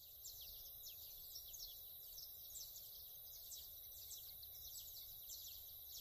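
Faint outdoor ambience of small birds chirping: many quick, high, downward-sliding chirps, several a second, over a steady high hiss.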